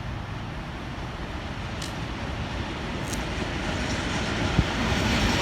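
Freight train approaching on the track, its rumble and wheel noise growing steadily louder, with a single knock about four and a half seconds in.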